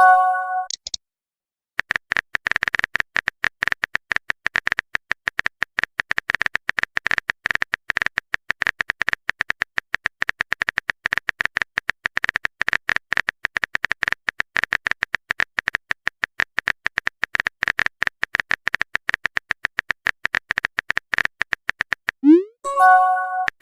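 Phone keyboard typing sound effect: a fast, steady run of tapping clicks. A short rising blip and a chime-like message tone sound just at the start and again near the end.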